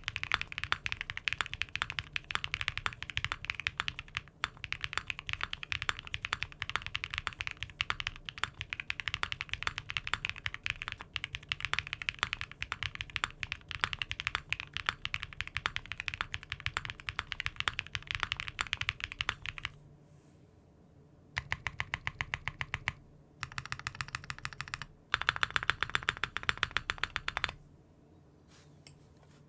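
Fast typing on a mechanical keyboard fitted with Cherry-profile keycaps: a dense run of key clacks for about twenty seconds, then a short pause and several shorter bursts of typing with brief gaps between them.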